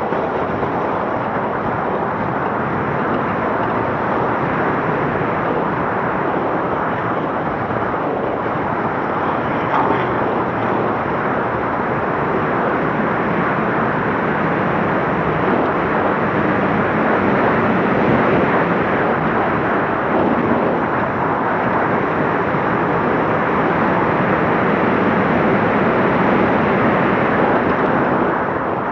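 Scania Dakar rally truck running at speed, a loud, steady mix of engine and driving noise that grows a little louder in the second half.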